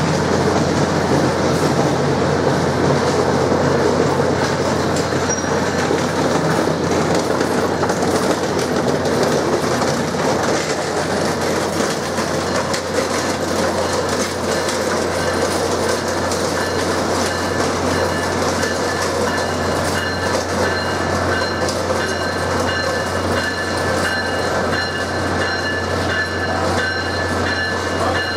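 Amtrak Siemens ACS-64 electric locomotive and its train rolling slowly into a station platform, wheels clicking over rail joints and switches over a steady low hum. A few thin, high, steady tones join in during the last third.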